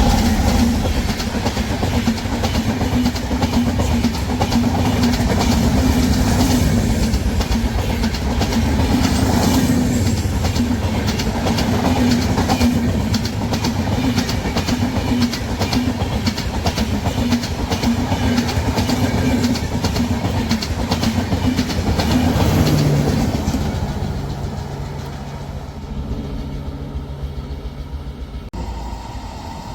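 Train passing close by on the track, a steady rumble with rapid wheel clicks over the rail joints, fading away in the last few seconds.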